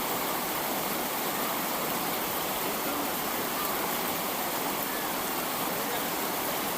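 Fast-flowing flash-flood water rushing past in a steady, unbroken torrent.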